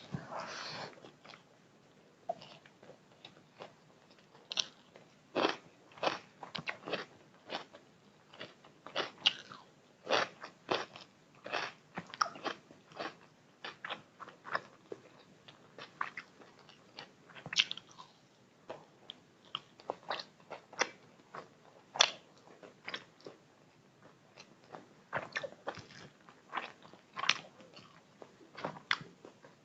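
A person chewing and eating chicken biryani and chilli chicken: short, irregular wet mouth clicks and smacks throughout, with a brief noisier sound right at the start.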